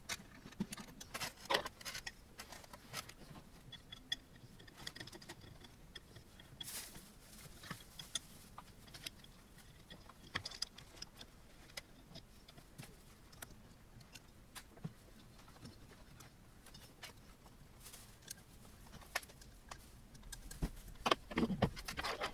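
Scattered small metallic clicks and clinks of frame parts, screws and hand tools being handled while assembling a 3D printer kit, with a louder clatter near the end.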